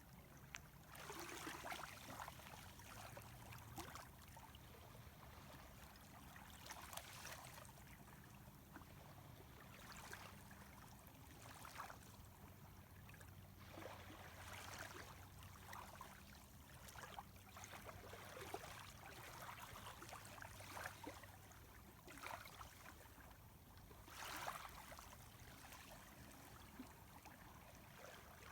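Calm sea water gently lapping on a pebbly shoreline, faint, with soft washes coming and going every few seconds.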